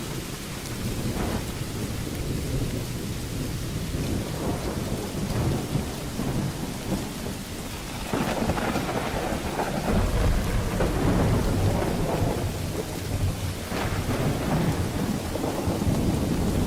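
Thunderstorm: steady heavy rain with rolling thunder. The low rumble grows louder about halfway through and stays up to the end, with short crackling peals near the start and again near the end.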